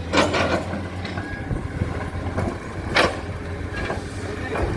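Heavy diesel engine running at a steady idle. Two short sharp sounds rise above it, one just after the start and one about three seconds in.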